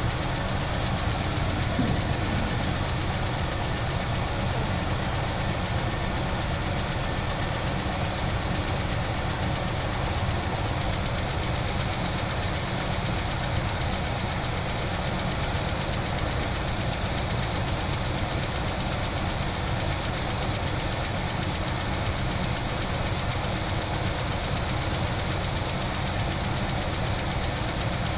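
1976 Chevy Blazer's engine, fed by a Holley 600 four-barrel carburetor, idling steadily just after starting up following a fuel transfer tube install.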